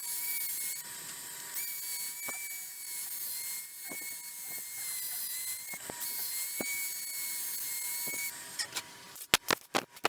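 A small power tool's high-pitched motor whine, running in three stretches with short pauses between them. A few sharp clicks come near the end.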